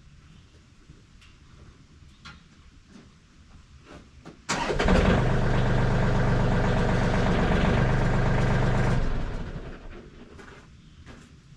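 Electric log winch motor running under load, pulling a heavy green red oak log up onto the sawmill. It starts abruptly about four seconds in, runs steadily for about four and a half seconds, then winds down.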